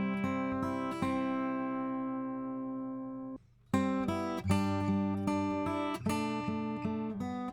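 Acoustic guitar played through a Warm Audio WA-2A optical compressor in compress mode. A few chords, then one chord left ringing and fading for about two seconds, a brief silence, and then rhythmic chord playing resumes.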